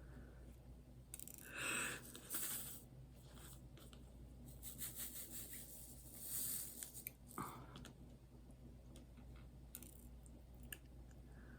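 Faint rustling and scraping with scattered small clicks from handling diamond painting materials, in two short spells about two seconds in and again around five to seven seconds in.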